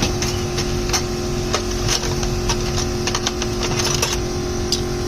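Irregular light clicks and taps of hand tools and metal parts being handled while a motorcycle engine is worked on, over a steady hum.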